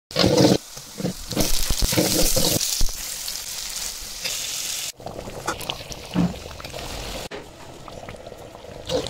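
Food frying and sizzling in a pan, with a few knocks in the first three seconds. Short cooking clips are cut together, with abrupt changes about five and seven seconds in.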